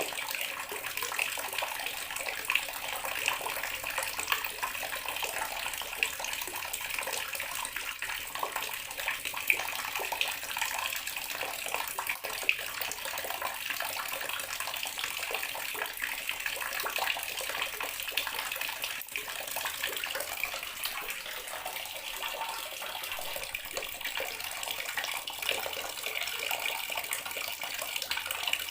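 Water running steadily from a bathroom sink tap, splashing into the basin.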